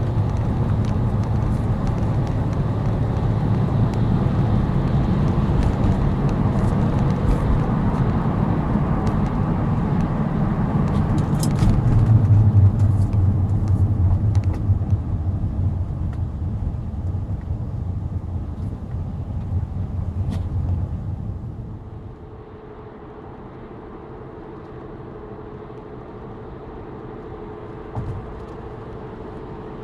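A 2004 Chrysler 300M Special on the road, with a heavy low rumble made mostly by deformed tyres together with a loud exhaust leak on the passenger side. It grows loudest about halfway through. A little past two-thirds of the way it drops to a quieter steady hum carrying a faint level tone.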